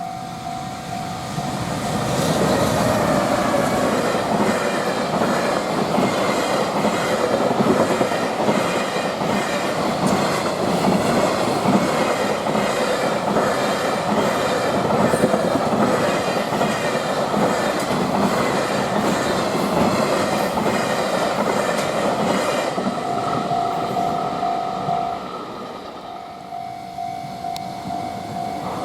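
A freight train passing at speed, its wheels clattering rhythmically over the rail joints for about twenty seconds. A level-crossing warning bell rings at the start and again after the train has gone, near the end.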